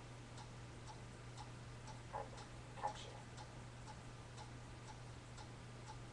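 Clock ticking about twice a second: the ticking sound effect heard in anime. It sits over a steady low hum, with two slightly louder brief sounds around two and three seconds in.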